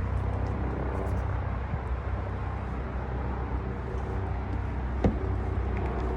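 Car engine idling steadily, with one sharp click about five seconds in.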